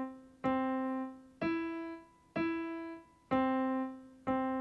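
Piano playing a slow single-note melody, one note about every second: middle C, then E twice, then C twice, each note ringing and dying away before the next. It is a beginner's first-section demonstration built on the notes C and E.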